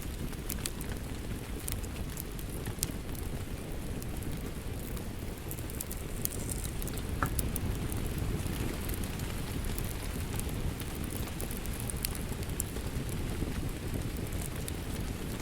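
Steady rain falling, with a log fire crackling over it in scattered sharp pops.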